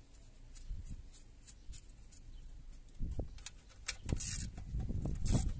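Handling noises of tools and engine parts: a few faint clicks, then from about three seconds in irregular dull knocks and short rustling scrapes, loudest near the end.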